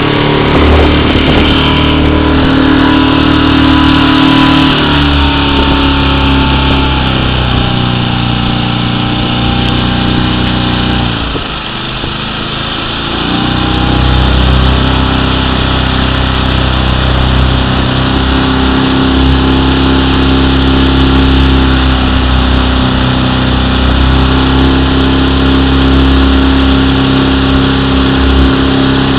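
Motorboat engine running steadily. It eases off for a couple of seconds near the middle, then picks up again.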